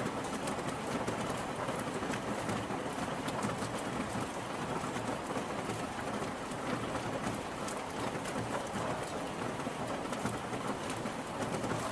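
Steady rain falling on hard surfaces, a dense even hiss with many individual drop ticks, no thunder.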